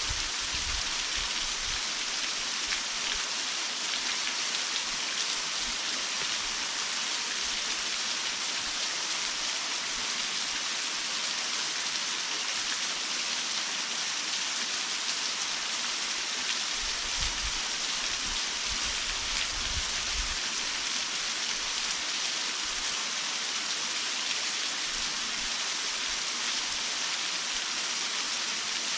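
Waterfall pouring steadily: a constant, even rush of falling water, with a few brief low rumbles about 17 seconds in.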